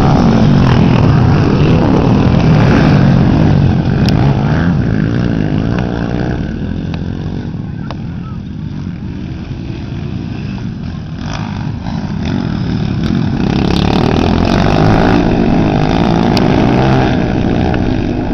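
Motocross dirt bikes racing, their engines revving up and down. Loud at first, fading through the middle, then swelling again as bikes come close.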